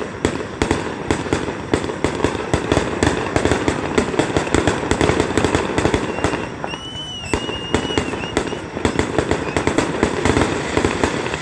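Aerial fireworks shells bursting in a rapid, continuous string of bangs and crackles, with a short lull about six and a half seconds in before the bangs resume.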